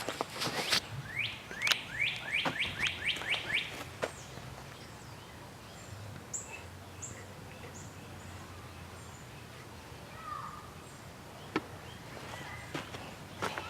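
A bird singing: a quick run of about eight down-slurred notes a second or so in, followed by a few faint high chirps and a single lower chirp later. A few sharp clicks come at the start.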